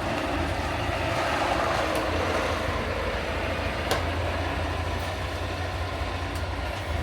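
A heavy vehicle running steadily with a low engine rumble and a wash of mechanical noise, with a few sharp clicks or knocks scattered through it.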